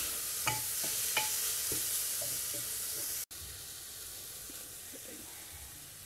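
Onion and crushed garlic sizzling in olive oil in a pressure cooker pot, with a utensil stirring and knocking against the pot a few times in the first half. After a brief break about three seconds in, the sizzle continues more quietly.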